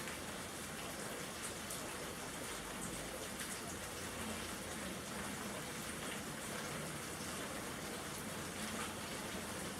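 Steady rain falling, a constant hiss with occasional faint drop ticks.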